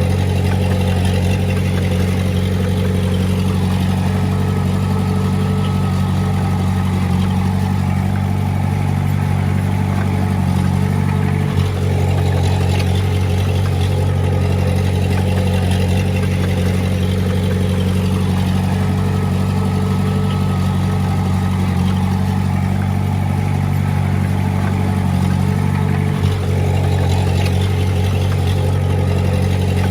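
Heavy-equipment diesel engine running at a steady speed, with two brief knocks, about twelve and twenty-six seconds in.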